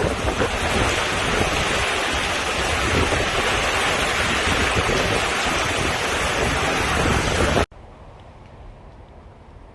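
Hurricane-force wind blowing hard against the microphone, a dense, steady rush of noise. It cuts off suddenly about three-quarters of the way through, leaving a much quieter background.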